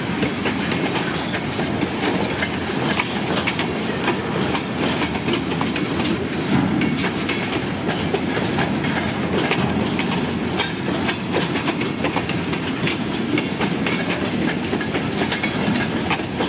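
Freight cars of a train rolling past, mostly empty log bunk cars followed by gondolas. A steady rumble of steel wheels, with a constant run of clicks and clacks as the wheels cross rail joints.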